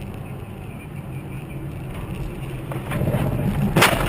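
Car engine and road noise heard inside a moving car, building up about three seconds in, then a sudden loud bang near the end followed by clatter: a vehicle collision.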